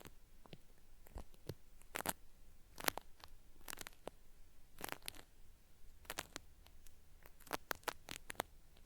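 Cotton swab working at the ear of a binaural microphone: irregular crackly scratching strokes, some in quick clusters, meant to sound like something being peeled away ("pari-pari").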